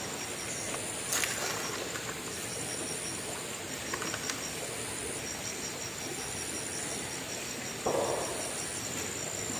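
Insects trilling high and steady in repeated stretches about a second long, over an outdoor background, with a sharp knock about a second in and a short rustle near the end.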